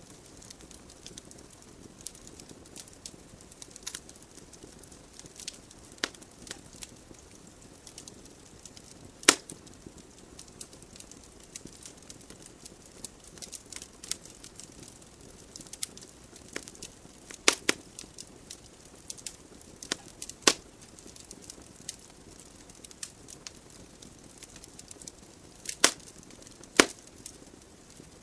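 Wood fire burning in a fireplace: a soft steady hiss of flames with frequent small crackles and a handful of loud, sharp pops from the burning logs.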